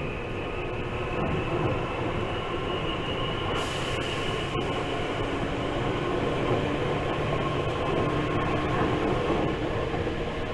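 Tokyu 8500 series electric train running at speed, heard from inside the car: a steady rumble of wheels on rail under a continuous whine from the motors and gears. A brief high hiss comes about three and a half seconds in and lasts about a second.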